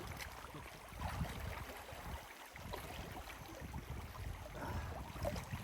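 River water splashing and moving around people bathing in it, with wind rumbling on the microphone.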